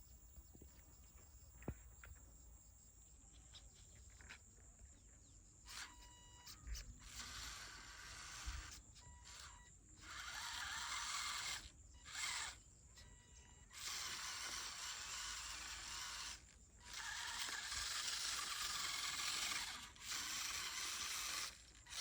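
Small electric motor and gears of a toy RC tractor whirring in repeated bursts of one to three seconds with short pauses, starting about six seconds in, some bursts carrying a steady whine.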